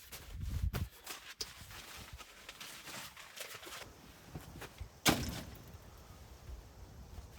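Footsteps and scattered handling knocks, with one sharp, loud knock about five seconds in.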